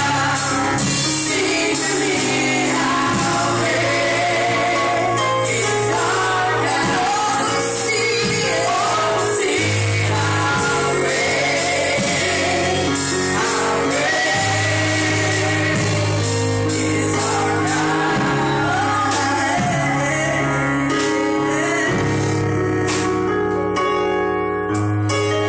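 Gospel worship music: men's and women's voices singing together over a live band with steady bass notes and cymbals, in a large hall.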